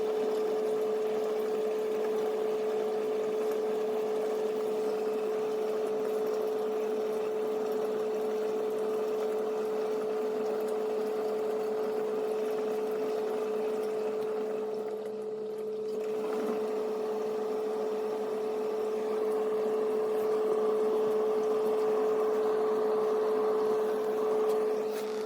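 Dishwasher pump running with water rushing inside the tub, a steady hum with one held tone that briefly dips about fifteen seconds in.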